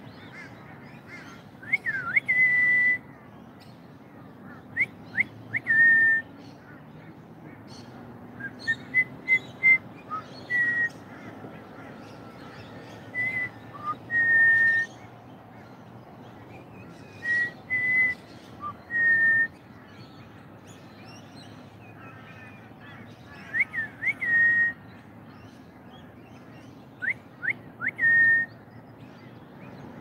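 A bird repeating a whistled phrase every few seconds: a few quick sliding notes and then a held, clear whistle.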